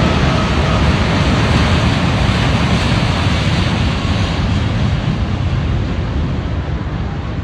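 Boeing 777X's GE9X turbofan engines running at a loud, steady roar that slowly fades.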